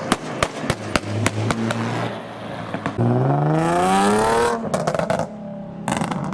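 Modified car's engine idling with sharp exhaust pops and crackles, then revving up once in a rising sweep about three seconds in before dropping off, with more pops near the end.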